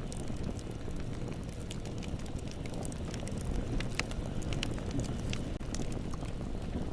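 Bonfire burning with a steady low rumble and frequent sharp crackles and pops from the burning wood.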